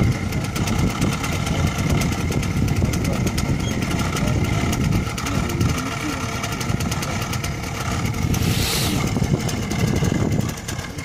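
Minsk D4 125 motorcycle's single-cylinder 125 cc engine running as the bike moves off slowly, its speed rising and falling a little. A brief hiss about eight seconds in.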